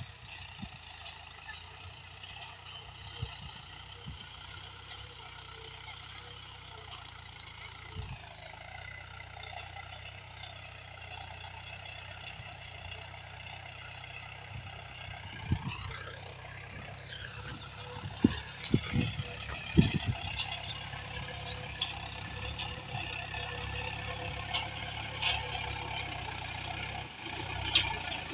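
Mahindra 415 DI XP Plus tractor's diesel engine running steadily, its pitch changing about a third of the way in and rising about halfway through as it is revved. Several sharp knocks and rattles come in the second half.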